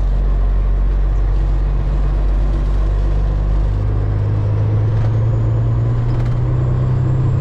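Semi truck's diesel engine running steadily while driving, heard from inside the cab; its note shifts about halfway through.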